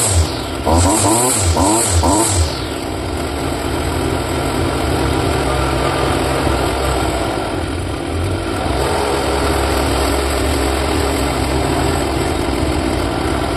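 Small two-stroke engine of a Stihl string trimmer blipped through about four quick revs near the start, then running steadily at speed. This is a test run on a newly fitted carburettor that is still slightly out of tune.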